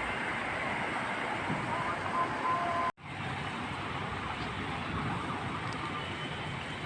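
Steady hiss of heavy rain and wet street noise, with a couple of faint brief high tones. The sound cuts out for an instant about three seconds in, then carries on.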